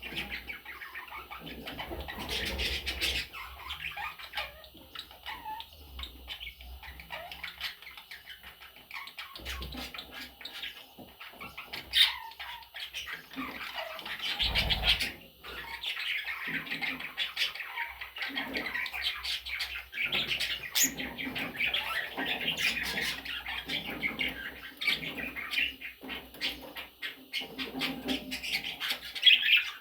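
Budgerigars chattering and chirping continuously, a dense warbling flock chatter, with a couple of low thumps partway through.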